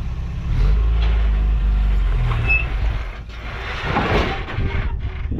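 A 1986 Toyota pickup's engine working hard under load as it crawls over rock. Its low drone swells about half a second in and eases after about two and a half seconds, with a burst of rougher noise about four seconds in.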